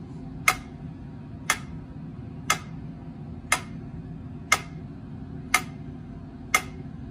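Clock ticking, one sharp tick a second, over a low steady hum.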